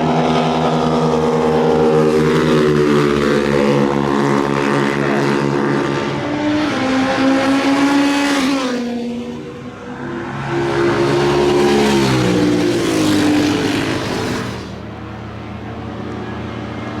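Motorcycle engine on a race track, its pitch climbing and falling as it accelerates and shifts gear, with a brief lift off the throttle about nine seconds in. It drops away to a quieter, steady drone near the end.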